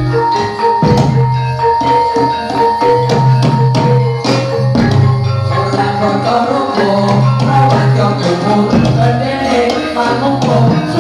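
Live jathilan troupe music: drums and percussion keep a steady rhythm under tuned, gamelan-style melodic notes, with a long high held note over the first few seconds.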